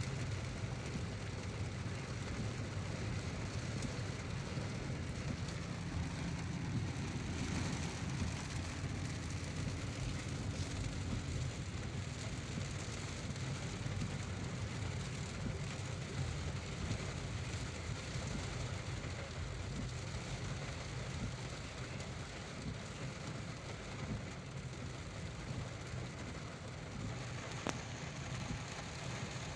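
A car driving in heavy rain: a steady hiss of rain on the car over a constant low rumble of the road and engine, with one sharp click near the end.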